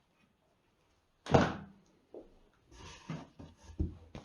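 A solid thud about a second in, then several lighter knocks and rustles: fireworks packs being handled and set down.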